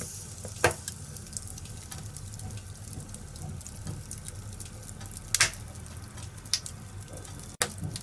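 Wood fire crackling in a fireplace, a steady low hiss under scattered sharp pops, the loudest about half a second in and about five and a half seconds in.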